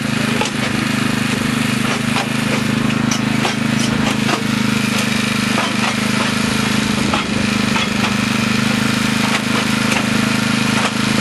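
Diesel-hauled excursion train under way, heard from the open end platform of a passenger coach: a steady low drone with wheels clattering on the rails and loose parts rattling.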